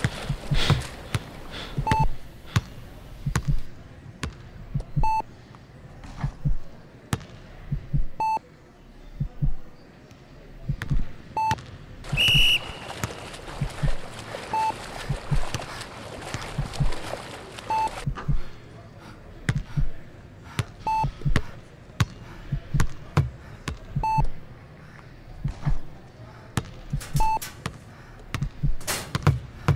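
Electronic sound-art soundscape built on a heart-monitor theme. A short, clean beep repeats about every three seconds over irregular low thuds and a noisy haze, with a brief higher tone about twelve seconds in.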